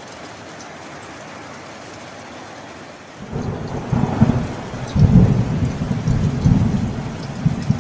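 Steady rain falling, then about three seconds in a deep, rolling rumble of thunder sets in and carries on, loudest a couple of seconds after it starts.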